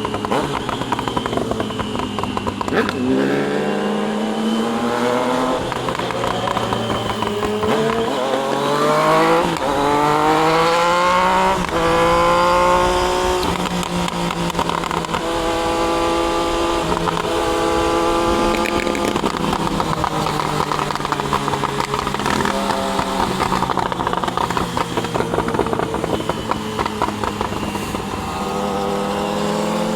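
Triumph Daytona 660's inline three-cylinder engine heard from the rider's seat, accelerating hard through the gears with rising revs broken by quick upshifts, then holding a steady speed. It eases off later and starts to pull again near the end.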